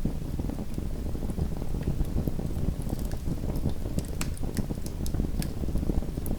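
Small wood fire burning in a fireplace: a steady low rumble of the flames with frequent sharp crackles and pops scattered through it.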